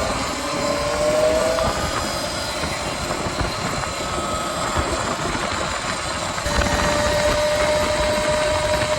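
Dirt bike engine running as the bike is ridden along, its note climbing in the first couple of seconds, then holding steady and a little louder from about two-thirds of the way through, over a steady rushing noise.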